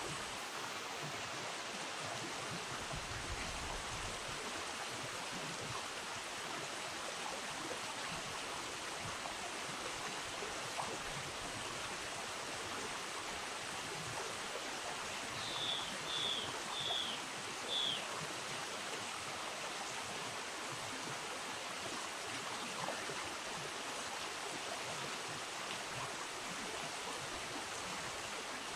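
River water running steadily over its bed, a continuous rushing hiss. About halfway through come four short, high chirps in quick succession.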